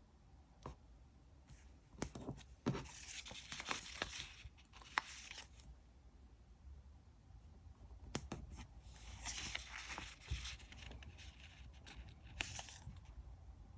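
Paper and stickers being handled, peeled and torn: crackly rustling in two stretches, about two seconds in and again about eight seconds in, with scattered sharp taps and clicks.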